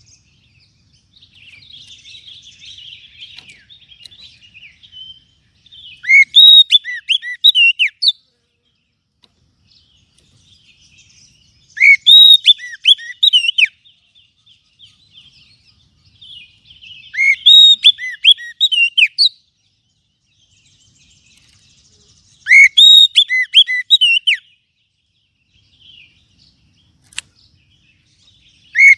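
Oriental magpie-robin (kacer) song, the kind played as a lure call: loud bursts of rapid whistled, chattering phrases about every five to six seconds, each lasting about two seconds, with quieter twittering between them.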